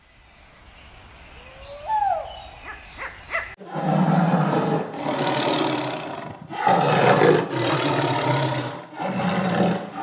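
A tiger roaring in a series of about five long, loud roars, each lasting a second or more, starting about three and a half seconds in. Before that there is a quieter stretch with one short gliding call about two seconds in.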